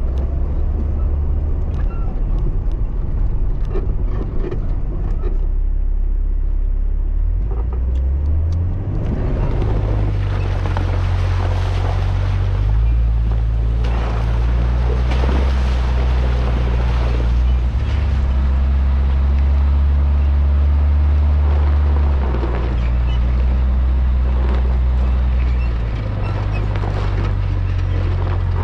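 Off-road 4x4 driving along a snowy, icy trail: the engine's steady low drone rises in pitch about nine seconds in and steps up and down several times after, while tyre and road noise grows louder from that point on.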